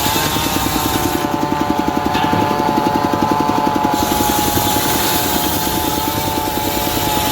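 Diesel engine driving a homemade circular saw, running steadily with a fast, even chugging and a steady whine over it.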